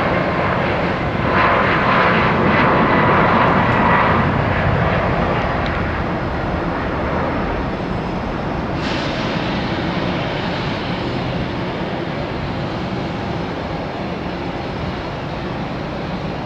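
Jet airliner's engines passing, a loud rush of engine noise with a steady whine that is strongest in the first few seconds, then fades slowly as the plane moves away.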